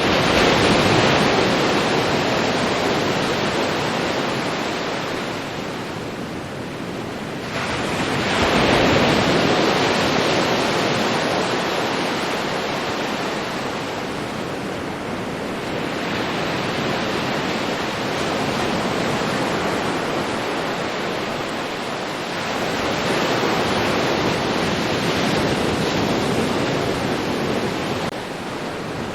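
Ocean waves rolling in and washing up a beach, each wave swelling and fading, with a new surge about every seven to eight seconds.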